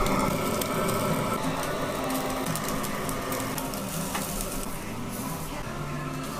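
Pork neck (moksal) sizzling on a tabletop Korean barbecue grill, a steady crackling hiss, over restaurant background noise.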